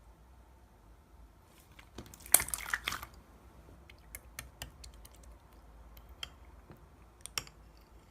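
Clear slime being handled: scattered small clicks and pops, with a dense run of crackling pops about two to three seconds in, the loudest part.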